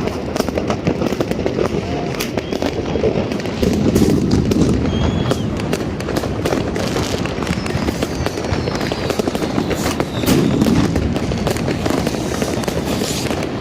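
Many fireworks and firecrackers going off at once: a dense, continuous rumble of bangs and sharp crackles, with a few high whistles gliding down in pitch.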